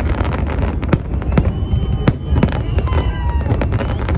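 Aerial fireworks display: a rapid run of sharp bangs and crackles over a steady low rumble, with several high whistles in the middle.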